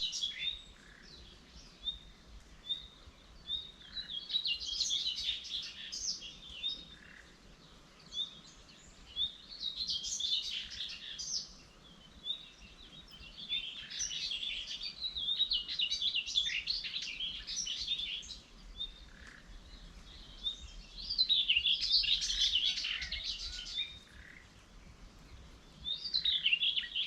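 Birds singing: a series of chirping song phrases, each a few seconds long, with short pauses between them.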